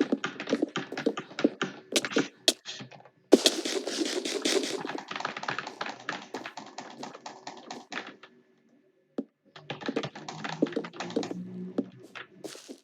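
Typing on a computer keyboard: quick, uneven runs of key clicks, breaking off for about a second around two-thirds of the way through before the typing resumes.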